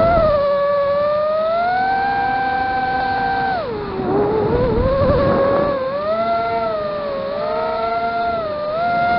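Vortex FPV racing quadcopter's motors and three-blade props whining in flight, the pitch rising and falling with the throttle. The whine drops sharply about four seconds in and turns rough for a couple of seconds, then climbs back.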